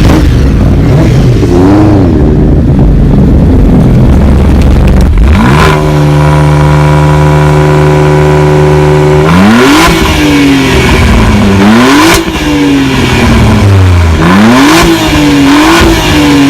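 Ford Mustang V8 exhaust, loud, first idling with a small blip. About five and a half seconds in it revs up and holds a steady high rev for about three and a half seconds. It then drops back and is blipped about four more times, each a quick rise and fall in pitch.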